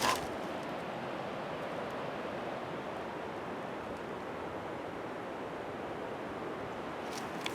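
Steady rushing of flowing water, an even noise that holds constant throughout, with a couple of faint clicks near the end.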